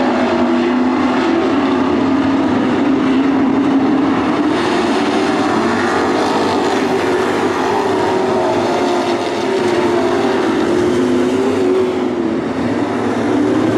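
A pack of dirt-track racing trucks running at speed around the oval, several engines droning together with pitches that rise and fall as they race.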